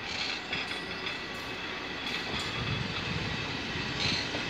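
Passenger coaches rolling slowly past, their wheels running on the rails, with short high-pitched squeals near the start and again near the end.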